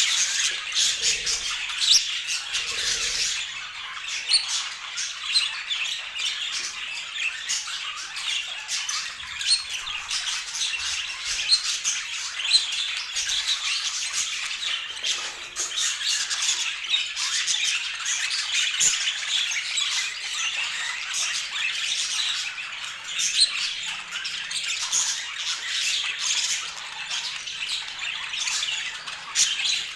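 Budgerigars chattering and squawking without a break: many short, high calls and clicks overlapping.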